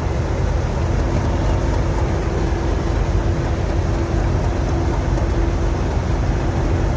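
A train or locomotive running steadily: a continuous low rumble with a steady hum over it.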